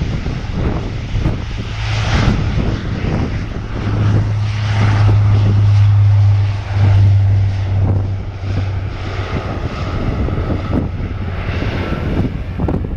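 Bombardier Dash 8 Q400 turboprop at takeoff power, its propellers giving a deep steady drone that swells to its loudest in the middle and then fades as the aircraft moves away. Gusts of wind buffet the microphone throughout.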